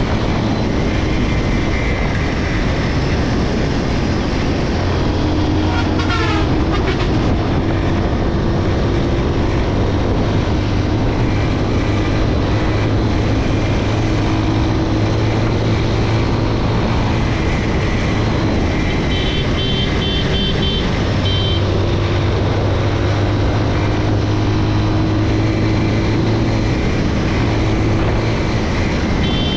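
Motorcycle engine running steadily while riding, under a constant rush of wind and road noise. Its pitch climbs slowly a couple of times as the bike gathers speed. A short falling whistle-like sweep comes about six seconds in, and a brief pulsing high tone is heard twice, once around the twenty-second mark and again at the end.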